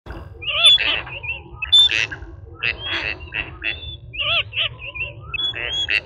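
Ducks quacking, a quick series of loud, short calls at about two a second, over a low steady rumble.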